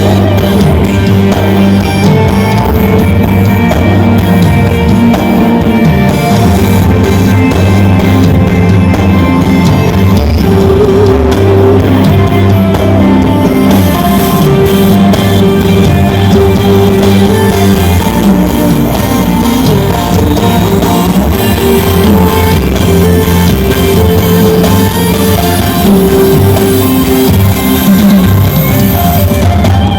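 Loud live band music through a concert PA: drums, guitar and deep sustained bass notes, with a little singing.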